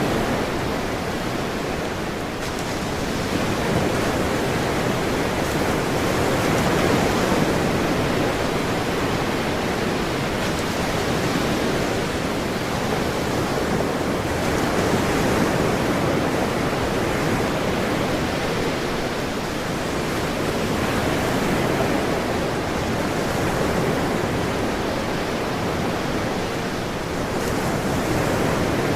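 Ocean surf washing continuously, a steady rushing hiss that swells and eases gently every few seconds as waves break and run out.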